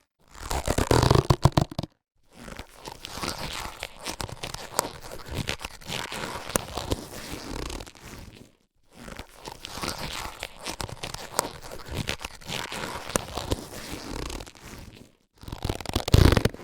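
Latex surgical gloves being handled: stretched and rubbed, rustling and crackling with sharp little clicks. The sound comes in separate takes with short silences between them, a louder, fuller burst at the start and again near the end, and two longer, quieter stretches of rubbing in the middle.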